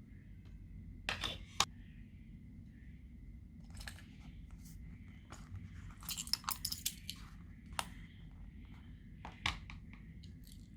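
Slime being kneaded and mixed by hand, giving scattered crackles and pops, with a dense run of crackling about six seconds in.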